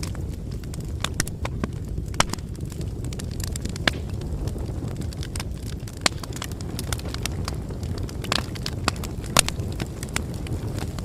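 Wood bonfire burning with a steady low rumble and frequent irregular crackles and pops, several of them louder snaps.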